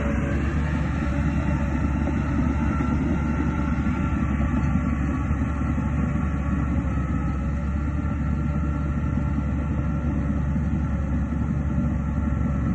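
Heavy diesel earthmoving machinery running steadily under load, a continuous deep engine rumble.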